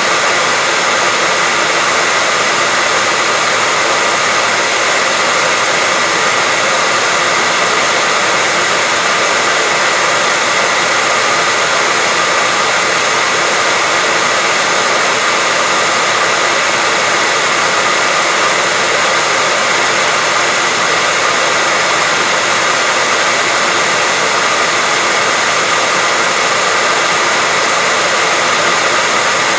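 Hair dryer running steadily: a continuous, unchanging rushing hiss of the blower with a faint steady whine from its motor, played as white noise to lull a baby to sleep.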